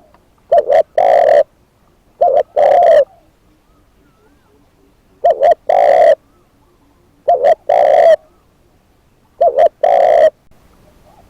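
Spotted dove (decoy bird) cooing loudly. It gives five calls, each two short coos followed by one longer coo, repeated every two to three seconds.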